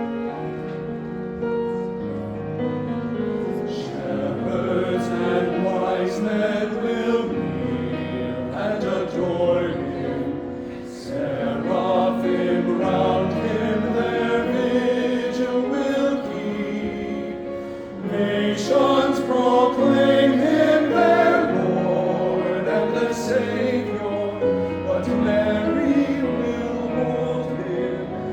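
Choir singing a Christmas carol, many voices in parts.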